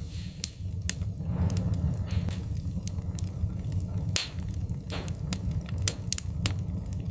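Wood-burning fire crackling: sharp, irregular pops and snaps, a few with a brief hiss, over a steady low rumble of the burning fire.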